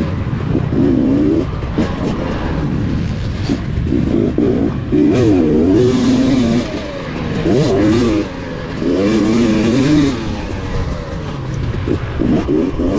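KTM 250 XC's two-stroke engine revving up and down repeatedly as the motocross bike is ridden, the pitch rising and falling every second or two.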